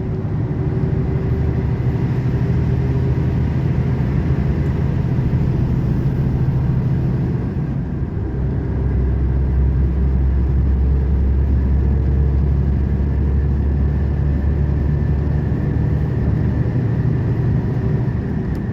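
Volvo truck's diesel engine pulling steadily, heard from inside the cab during an overtake. There is a brief dip about eight seconds in, after which the engine note sits lower and heavier.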